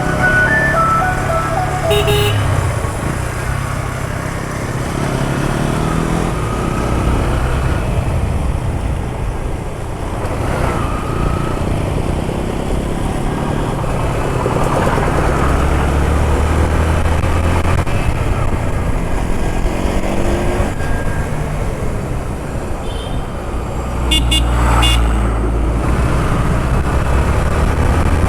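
Road traffic: vehicle engines running steadily, with horns honking briefly about two seconds in and again near the end.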